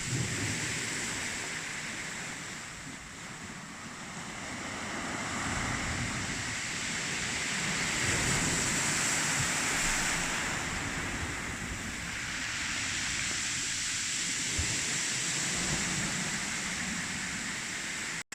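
Strong wind buffeting the microphone over the wash of sea surf, swelling and easing over several seconds. The sound cuts off abruptly near the end.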